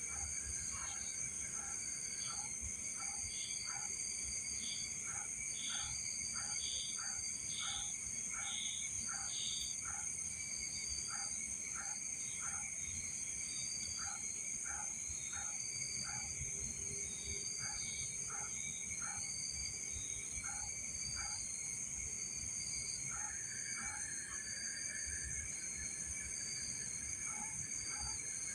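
Night insects such as crickets chirring in steady high-pitched tones, with another animal's short call repeating about twice a second through most of it, over a low rumble.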